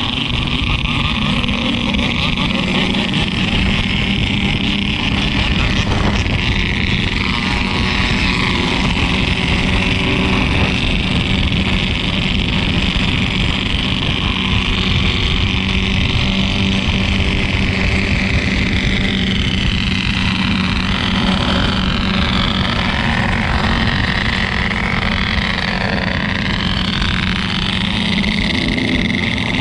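Yamaha RX-King 135 two-stroke motorcycle engine running under way, with steady wind and road rush over it. Shifting higher tones come and go in the second half.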